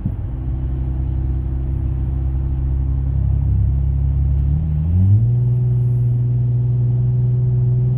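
Dodge Journey's engine and road noise while driving at highway speed, a steady hum. About five seconds in, the engine note climbs quickly and then holds at a higher, slightly louder pitch.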